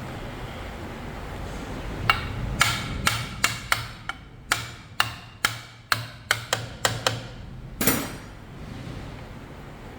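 A hammer striking metal, about fifteen sharp ringing blows at roughly two a second, the last one heavier and longer, typical of tapping a part into place during engine assembly.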